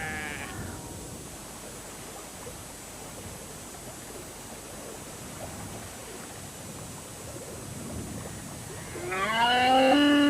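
Faint, even background noise, then about nine seconds in a loud, long animal call, a pitched bellow that rises and falls and runs into a second, similar call.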